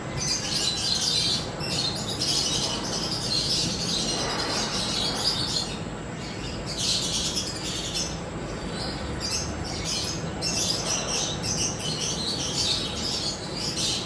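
Birds chirping outdoors in quick, high, dense runs that come in bursts of a second or two with short gaps between them, over a steady outdoor background noise.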